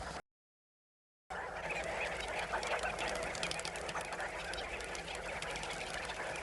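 A brief dropout to silence near the start, then a flock of birds calling together: a dense chorus of short chirps and chattering calls.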